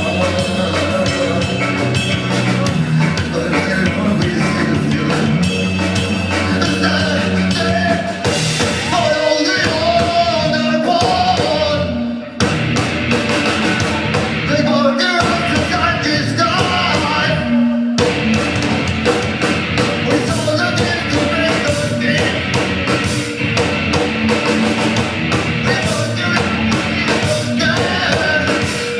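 Live rock band playing loud, with drums and guitars, breaking off for a moment about twelve seconds in before coming straight back in.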